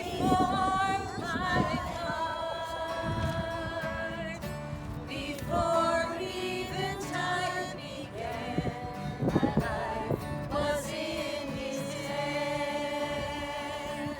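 Several voices singing a slow gospel song in long held notes.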